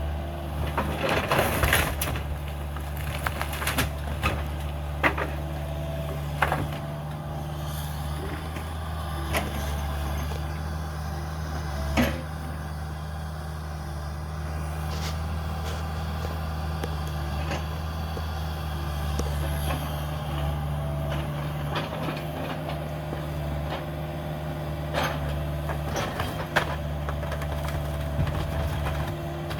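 Cat 305 mini excavator's diesel engine running steadily, with scattered sharp cracks and knocks of house timbers breaking as it demolishes the house, loudest about a second in and again about twelve seconds in.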